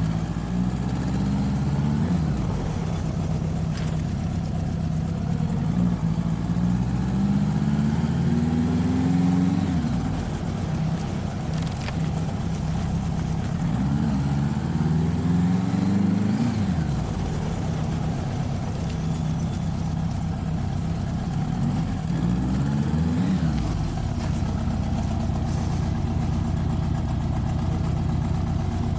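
Motorcycle engine accelerating through the gears. The pitch climbs and then drops sharply at each shift, several times over, and settles into a steady cruise for the last few seconds.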